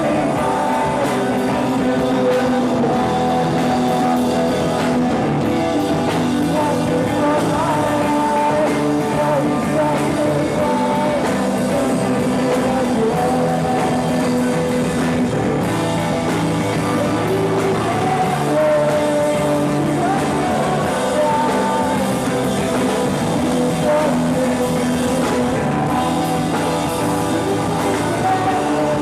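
Live rock band playing, with singing over electric guitar and drums.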